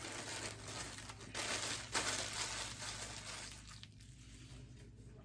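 Packaging crinkling and rustling as a t-shirt is unwrapped by hand, loudest about one and a half to two and a half seconds in, then quieter handling.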